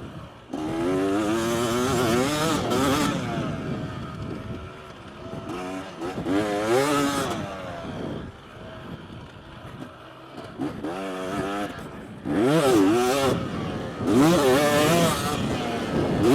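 KTM motocross bike engine revving hard and falling back again and again, several surges of rising pitch with the throttle shut off in between.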